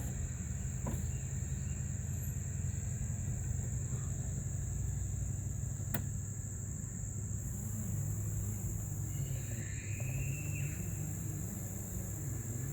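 Steady high-pitched insect chorus over a low steady rumble, with two sharp clicks, about 1 s and 6 s in.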